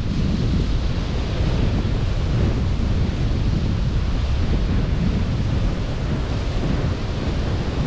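Sea surf washing steadily onto a beach, with wind buffeting the microphone in a constant low rumble.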